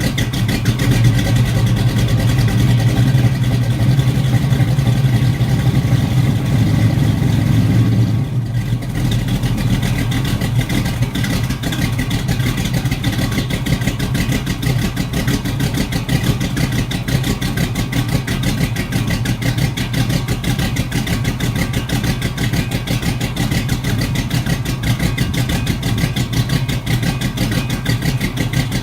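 Pontiac 400 V8 in a 1968 Firebird idling through Flowmaster 40 Series Delta Flow mufflers, warming up after a cold start. About eight seconds in the idle drops back to a lower, quieter, steady running level.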